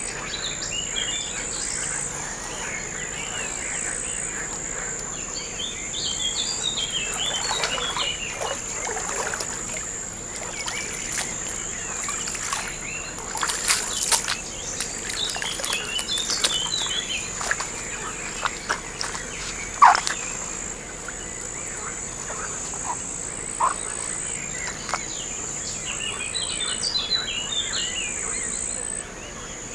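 Steady high-pitched insect chirring, likely crickets, with birds singing short trilled phrases every few seconds. A few sharp clicks come about halfway through, and a single sharp call near two-thirds of the way.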